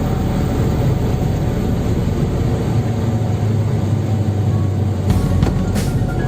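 Fiat 126p's air-cooled two-cylinder 652 cc engine and road noise heard from inside the car while driving. A few sharp knocks come in the last second.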